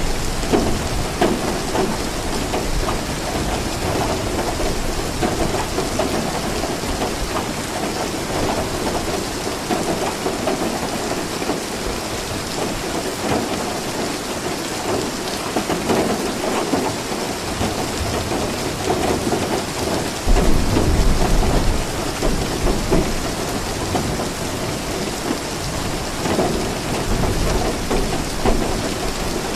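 Steady heavy rainfall with thunder rumbling low underneath; a deeper, louder roll of thunder comes about two-thirds of the way through.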